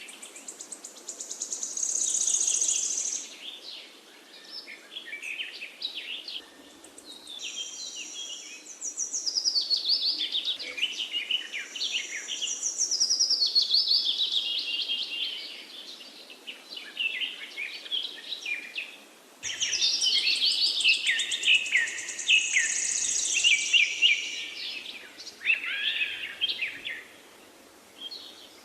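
Several small birds chirping and singing at once in dense, overlapping bursts of quick high notes, with short lulls between the bursts.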